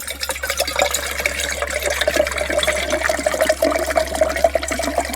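Water being poured from a bottle into a cooking container: steady splashing, with a tone that rises slowly as the container fills.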